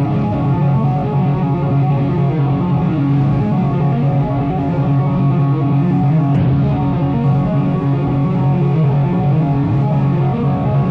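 Live rock band playing steadily and loudly, led by electric guitar over bass.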